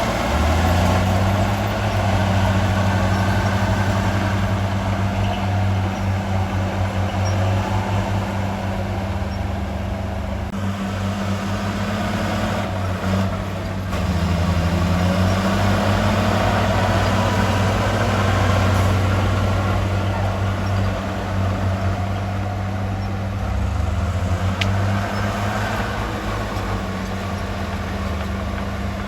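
Heavy diesel engine of earthmoving equipment running steadily, its pitch dipping briefly twice as the load changes.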